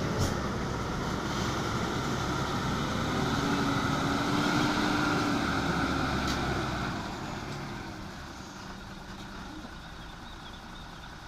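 Diesel engine of a sand-laden Hino truck running steadily, growing quieter after about seven seconds.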